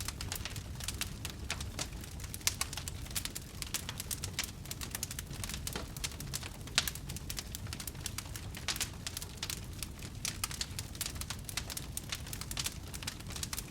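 Wood fire burning in a fireplace: dense, irregular crackling and snapping over a steady low rumble of the flames, with a few sharper pops.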